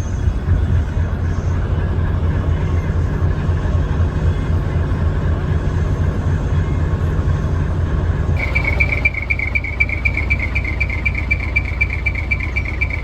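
A decorated truck's diesel engine running steadily through twin exhaust pipes, with a deep, rapidly pulsing rumble. About eight seconds in, a steady high-pitched chirring joins over the rumble.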